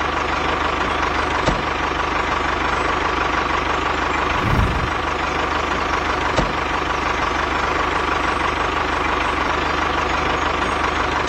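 Small engine of a home-built mini truck running steadily, just after starting, with a single low thump about halfway through.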